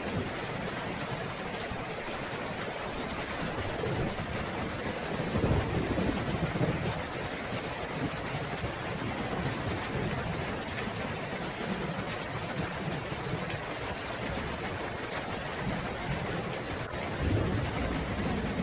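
Steady heavy rain hissing, with thunder rumbling in low swells partway through and again briefly near the end.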